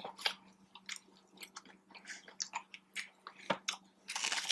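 Close-miked chewing of boneless chicken wings: irregular wet smacks and clicks of mouths eating, with a brief denser spell near the end.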